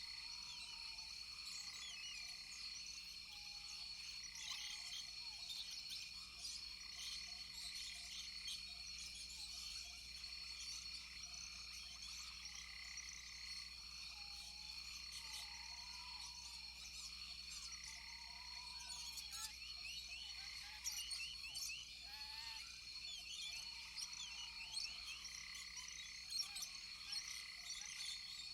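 Rainforest chorus of frogs and insects: a steady high-pitched trill, a call pulsing on and off about once a second, and short arching calls lower down, with many brief chirps over the top.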